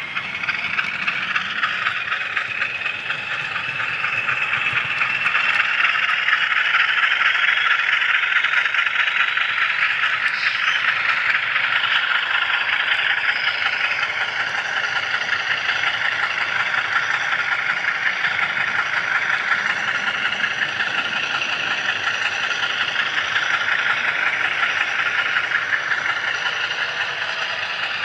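HO scale model train wheels running on the rails right under the microphone: a steady, fast rattle with a faint whine that glides up and down in pitch.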